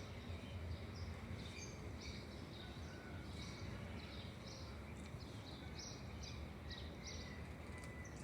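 Birds chirping: a steady run of short, high chirps, one or two a second, over a constant low rumble of background noise.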